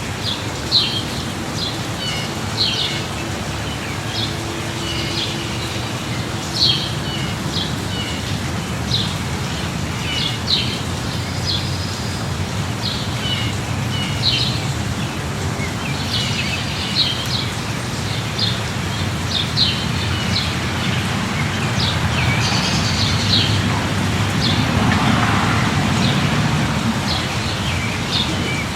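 Small birds chirping again and again in short calls over a steady hiss of light rain, with a low swell of background noise about three-quarters of the way through.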